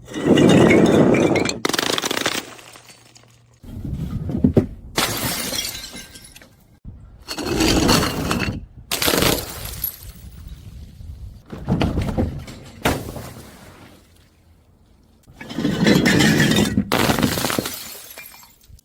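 Glass bottles being crushed and shattering, in a series of about six separate crunching breaks with short pauses between them.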